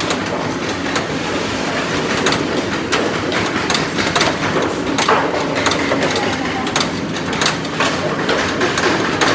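Factory workshop noise: a steady din of machinery with frequent irregular metal knocks and clicks.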